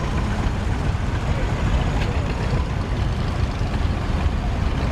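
Vintage farm tractor engine running as it drives past, a steady low rumble.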